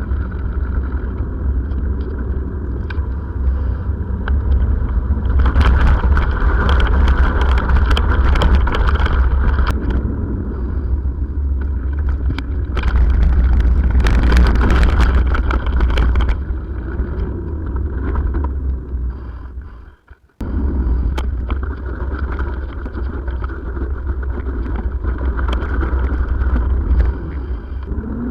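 Steady travel noise of a moving vehicle, with a heavy low rumble throughout. It drops out almost completely for a moment about two-thirds of the way through, then resumes.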